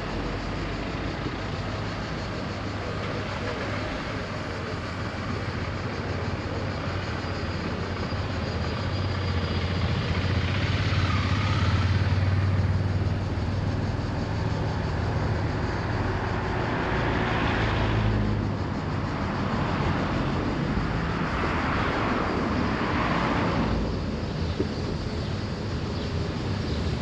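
Car driving on the road: a steady engine hum under road and tyre noise. The engine note is louder for several seconds in the middle, and a couple of broad swells of rushing noise come later.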